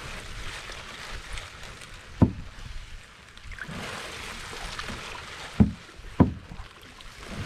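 Canoe paddling: water swishing with the paddle strokes, and three sharp knocks, about two seconds in and twice more near the end.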